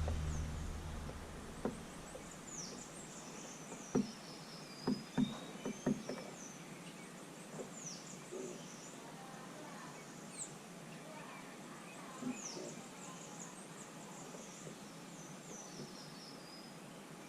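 Small songbirds at a seed feeder giving many short, high chirps, with a few sharp knocks about four to six seconds in.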